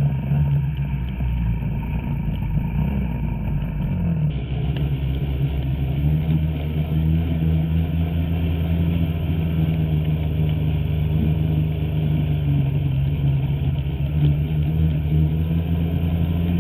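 Two-stroke snowmobile engine running steadily under throttle, its pitch wavering slightly as the sled rides, with a slight change in tone about four seconds in.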